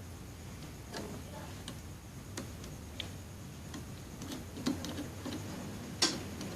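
Scattered light clicks and taps from multimeter test probes and hands working on the welding machine's circuit board during a check for a short, irregularly spaced, the sharpest about six seconds in.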